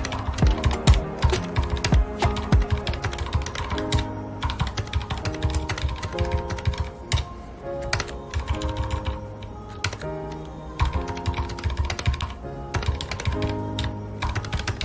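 Mechanical keyboard with linear red switches being typed on fast and irregularly, key strikes clicking in quick runs with brief pauses, over soft background music with held notes.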